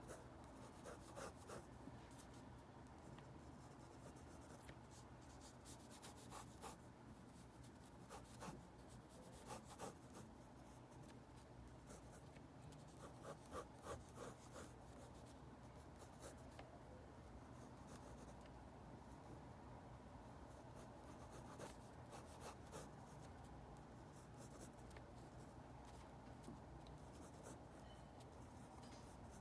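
Faint scratching of a pencil or pen drawing on paper, in short scattered strokes, with a quick run of strokes about halfway through.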